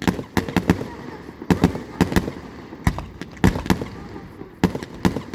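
Fireworks bursting overhead: a rapid, irregular string of sharp bangs, more than a dozen, often two or three in quick succession.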